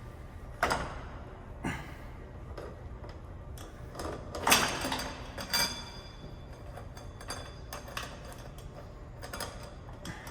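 Scattered metallic clicks and clinks of motorcycle drive chain and rear-wheel parts being handled while the chain is fitted, with one louder ringing clank about halfway through.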